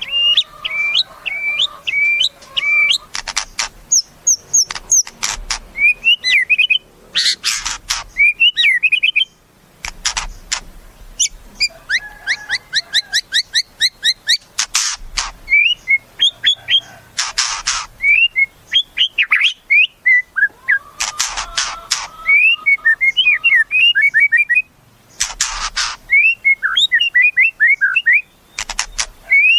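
White-rumped shama singing a long, varied song: quick whistled phrases and fast trilled runs, broken every few seconds by short harsh rasping bursts.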